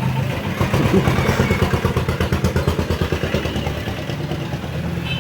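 Motor vehicle engine running at idle, with an even, rapid chugging.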